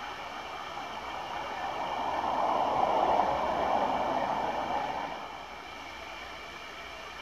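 A train passing out of sight: its running noise swells over about two seconds, peaks near the middle and fades away by about five seconds in, over a steady background hiss.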